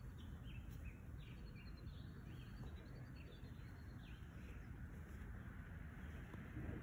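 A small bird chirping repeatedly in short high notes, about two a second, fading out about two-thirds of the way through, over a faint, steady low rumble of outdoor background noise.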